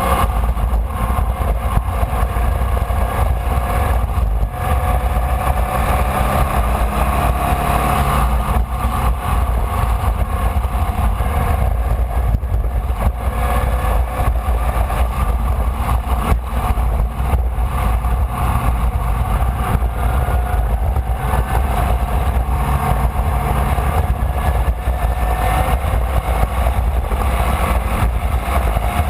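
Formula Vee's air-cooled Volkswagen flat-four engine running under load, heard from the car, its note drifting up and down as the throttle changes, over a heavy low rumble.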